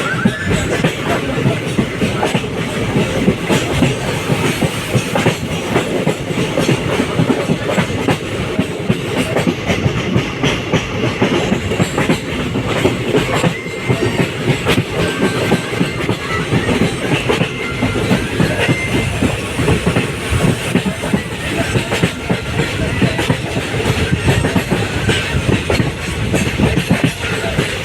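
Passenger train running with ICF coaches: a steady rolling rumble with the clickety-clack of wheels over rail joints.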